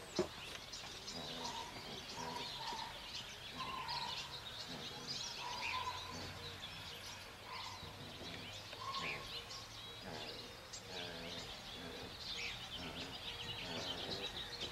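Small birds chirping: a dense scatter of short high chirps, with a few longer, lower whistled notes among them.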